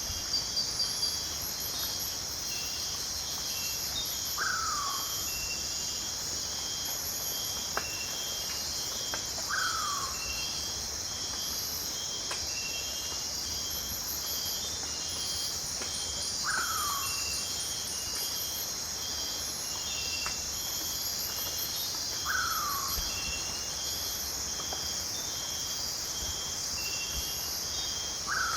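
Rainforest night chorus: a steady high insect drone with rows of fast pulsed chirping from crickets and other insects. Over it, a short falling call drops in pitch and repeats about every five to six seconds.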